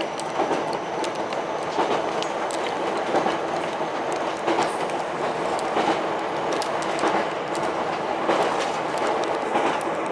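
Ichibata Electric Railway 7000-series electric railcar running along the line, heard from inside the car: a steady rumble with sharp rail-joint clicks about once a second.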